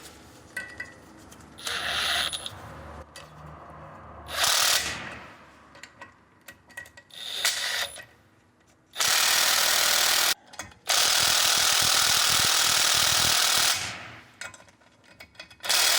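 A power tool fitted with a 13 mm socket driving two bolts in to push a Suzuki Samurai's front brake disc off the hub. It comes in three short runs, then two long steady runs in the second half.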